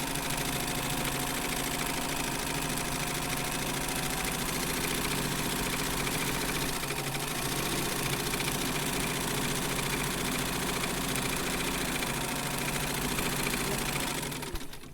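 Sewing machine running steadily, a fast even mechanical rattle, fading out near the end.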